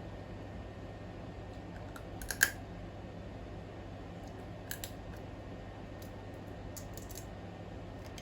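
Sharp cracks and clicks of a cooked crab's shell being broken open, one loud crack about two and a half seconds in and a couple of lighter clicks a little over two seconds later, over a steady low hum.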